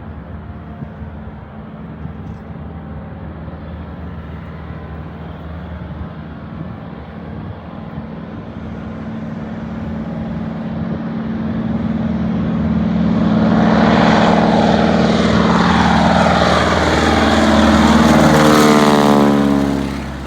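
Propeller airplane's engine growing louder as the plane approaches, then passing close by with its pitch falling. The sound drops off sharply near the end.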